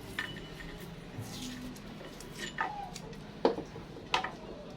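A few scattered light clicks and taps, five or so spread irregularly over a faint background.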